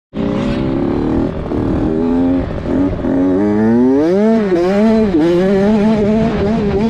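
Motocross dirt bike engine revving hard, its pitch climbing and dropping again and again as the throttle is worked through the track.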